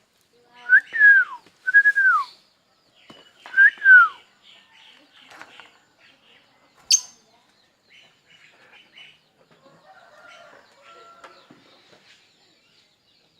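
A bird giving three loud whistled calls in the first four seconds, each rising briefly and then sliding down in pitch. A single sharp click comes about seven seconds in, and softer chirps follow.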